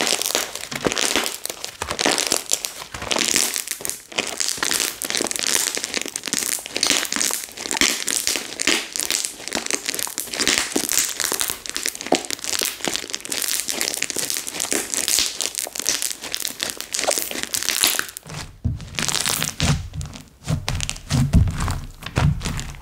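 Slime being squeezed and worked by hand, giving a dense, fine crackling and crinkling. From about 18 seconds in this gives way to deeper, duller thuds and squelches.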